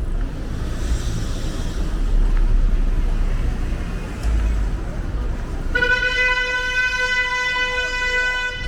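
Low street-traffic rumble, then a car horn sounds about six seconds in, held in one long steady honk for nearly three seconds before it cuts off.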